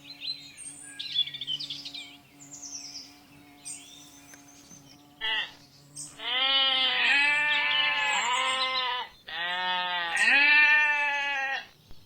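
Bleating livestock animal giving two long, wavering bleats in the second half, about three seconds each, with a short call just before them. Small birds chirp during the first half.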